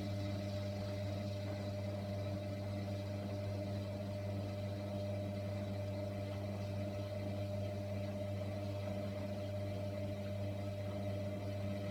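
Hoover washer dryer running during its main wash: a steady low machine hum with several overtones.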